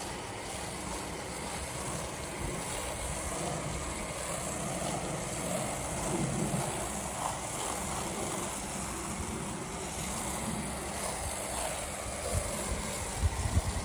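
Electric pressure washer running and spraying water onto house siding: a steady rushing hiss over its motor noise, with some wind buffeting the microphone.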